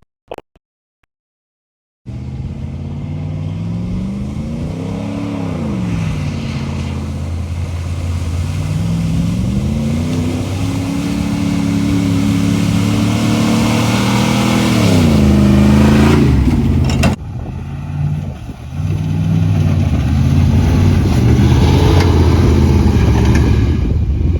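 1996 GMC K1500's 5.0-litre Vortec V8 through a custom exhaust, revving up and down repeatedly. The sound starts abruptly about two seconds in and breaks off briefly past the middle before the revving picks up again.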